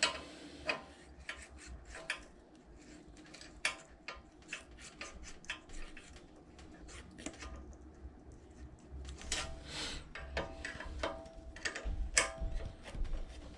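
Light metallic clicks and taps of hand tools working the exhaust valve's rocker arm and lock nut on a Predator 212 engine head as the valve lash is set, with a few short ringing clinks near the end.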